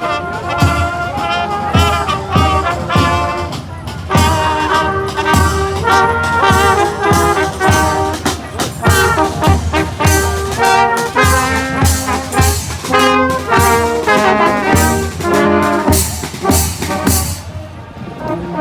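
Brass band playing a march, with trumpets and trombones over a steady drum beat. The music breaks off near the end.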